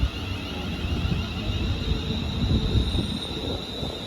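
A London Northwestern Railway Class 350 electric multiple unit, two units coupled, running through the station with a low rumble of wheels on track and a thin, steady high whine.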